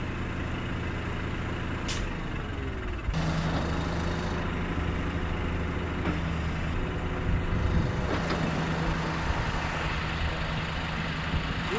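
Large truck's diesel engine running steadily under load during a winch-cable recovery of a truck stuck in mud; the engine note steps up and grows louder about three seconds in. A single sharp click near two seconds.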